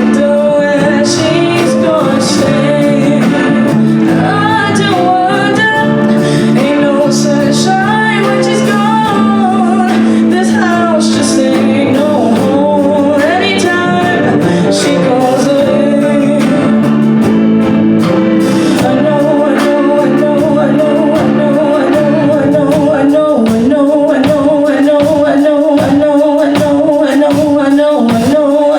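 Live band music: singing over guitar accompaniment, with a steady rhythmic pulse setting in about two-thirds of the way through.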